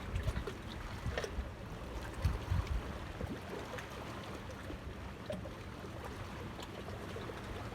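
Outdoor water-side ambience: a low, uneven rumble of wind on the microphone over water lapping, with scattered light knocks and clicks.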